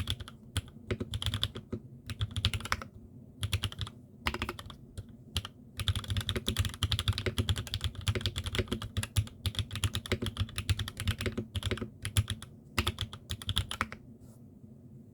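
Typing on a custom 80% tenkeyless mechanical keyboard, a CNC aluminium Transition with a top-mounted carbon plate, no foam, and Cherry MX Black linear switches: fast runs of keystrokes in bursts with short pauses, stopping about a second before the end.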